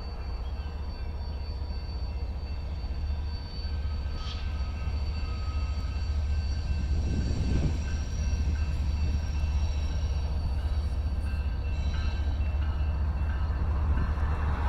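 Loaded coal train rolling across a railway bridge: a steady low rumble with faint, thin high tones over it.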